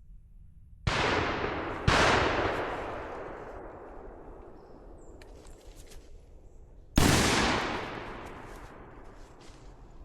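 Three shotgun shots: two about a second apart, then a third about five seconds later, each followed by a long fading echo.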